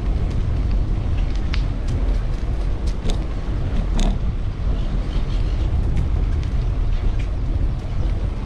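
Steady low rumble of wind and road noise on a bicycle ride through city street traffic, with a few brief clicks and squeaks.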